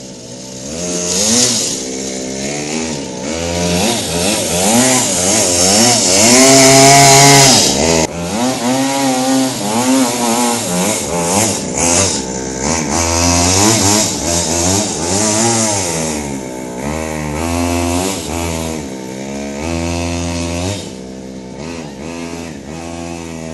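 Minibike's small engine revving up and down over and over, the pitch climbing and falling with the throttle, loudest about six to eight seconds in.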